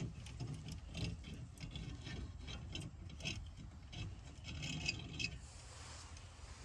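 Rubbing, scraping and clicking of things being handled, with many short irregular knocks, stopping about five seconds in.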